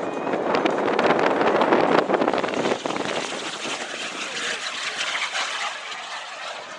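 SubSonex JSX-2 microjet's small jet engine flying past with a broad rushing noise. It is loudest about two seconds in, then fades as the jet moves away.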